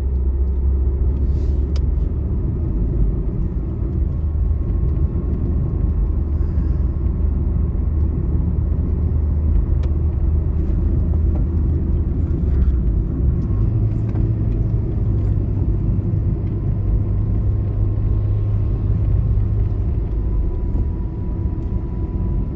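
Steady low rumble of a vehicle driving on a highway, with engine and tyre noise heard from inside. About halfway through, the low engine hum steps up in pitch.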